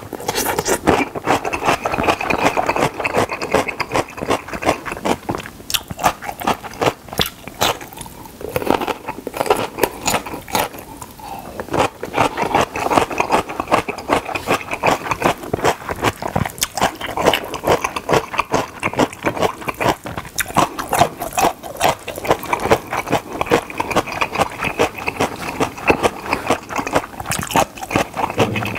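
Close-miked crunching and chewing of crisp yellow pickled radish (danmuji) strips: a dense run of crisp crunches, thinning out a little about a third of the way in.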